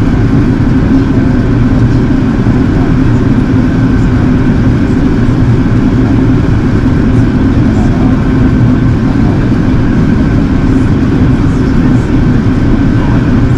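Steady cabin noise of an Airbus A380 in flight: a loud, even rumble of airflow and its Rolls-Royce Trent 900 engines, with a steady low hum and a faint higher tone running through it.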